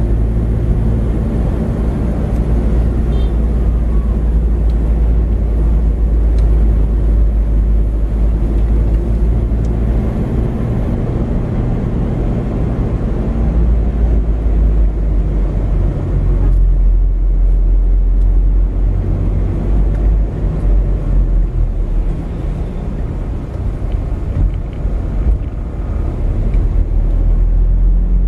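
Steady low rumble of a car's engine and tyres, heard from inside the moving car as it drives slowly along a paved street.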